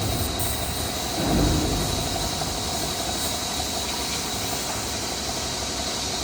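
A machine running steadily with a constant high whine, swelling briefly about a second in.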